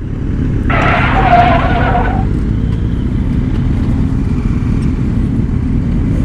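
Sport motorcycle engines idling with a steady low rumble, among them a 2009 Yamaha YZF-R6S running a Two Brothers full exhaust. About a second in, a higher-pitched tone sounds briefly over the engines.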